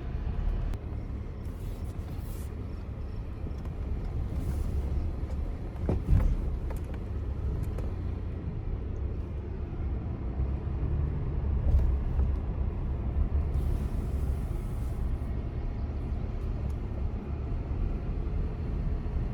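A truck driving, a steady low rumble of engine and tyres, with a single knock about six seconds in.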